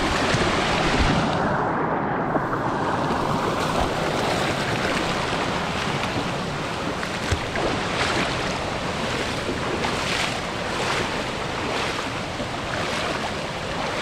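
Steady rush of water from a waterfall stream tumbling over rocks.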